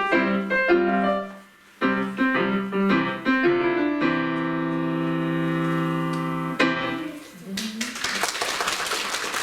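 Solo piano playing the closing bars of a Georgian lezginka: quick detached chords, a brief break, more chords, then a final chord held for about two and a half seconds. Applause starts about a second after the chord fades.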